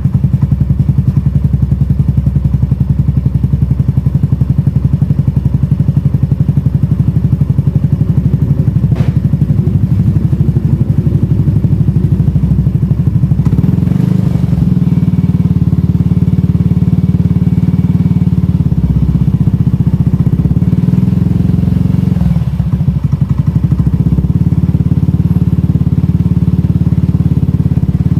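Yamaha NMAX scooter's single-cylinder engine running through a 99 Racing aftermarket exhaust, idling with a steady, rapid, deep pulse. Its tone shifts slightly a couple of times.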